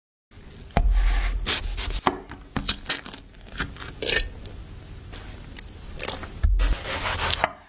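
Handling sounds: rubbing and scraping punctuated by many sharp knocks and clicks, with a heavy low thump about a second in and another near the end.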